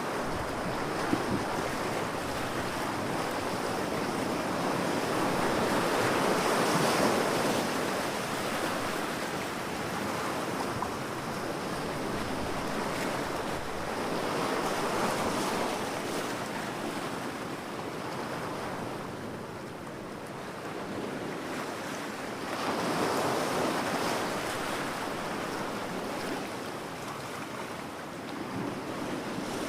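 Ocean waves breaking and washing on a shore, a steady rush of surf that swells every several seconds as each wave comes in.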